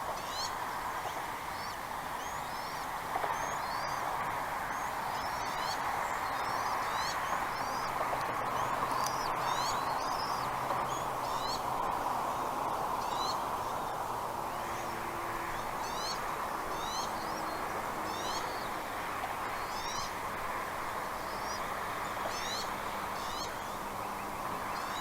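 Birds chirping: many short, quick, high-pitched chirps, often in pairs, over a steady background hiss.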